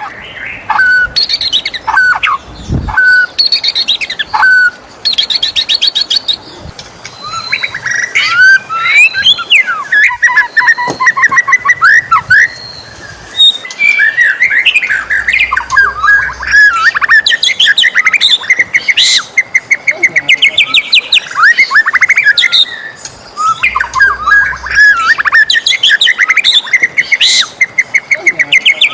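White-rumped shama singing: a few separate clear whistled notes at first, then long runs of fast trills and chattering phrases.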